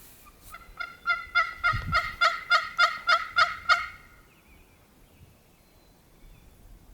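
Turkey yelping: a run of about a dozen evenly spaced yelps at roughly three a second, growing louder before stopping about four seconds in.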